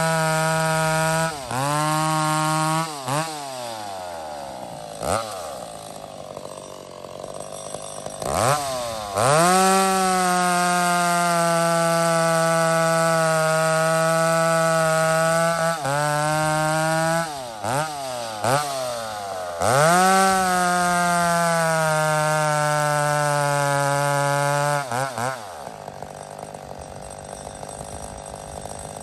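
Two-stroke McCulloch 850 chainsaw cutting through logs. It is revved to full throttle and held there for several cuts, the longest two lasting about six and five seconds. Between cuts it drops back to idle, with a few short blips of throttle.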